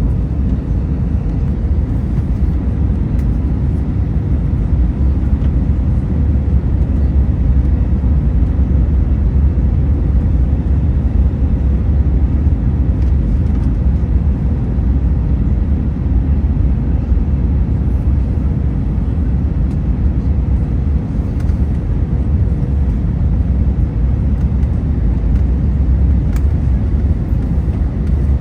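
Steady in-flight cabin noise of an Airbus A321neo: a deep, even rumble of airflow and its Pratt & Whitney geared turbofan engines, with a faint steady hum over it.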